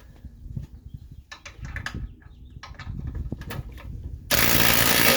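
A few clicks and knocks of tool handling, then, about four seconds in, an impact wrench starts hammering loudly on a stubborn suspension fastener.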